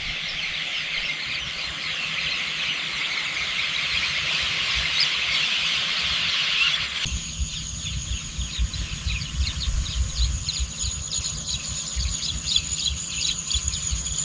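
A dense chorus of many small birds chirping. About halfway it cuts abruptly to a different field ambience: a steady high insect trill with scattered bird chirps over a low rumble.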